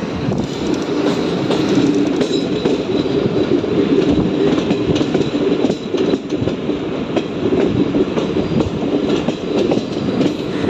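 Circar Express passenger train running along the track, heard from aboard at a coach door: a steady rumble of wheels on rail with light clattering over the rail joints.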